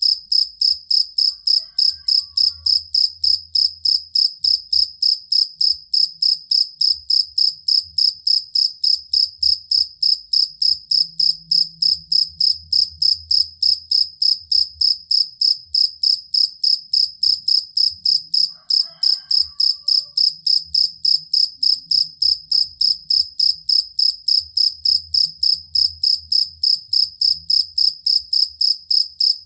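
Field cricket (jangkrik kalung) chirping steadily, about three high-pitched chirps a second, with no change in pace or pitch.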